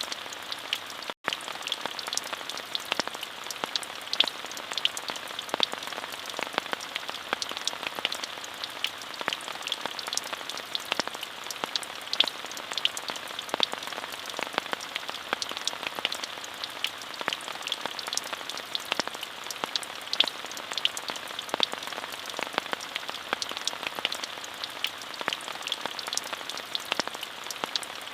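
Steady rain falling: a continuous even hiss dotted with many sharp individual drop ticks. The sound cuts out for an instant about a second in.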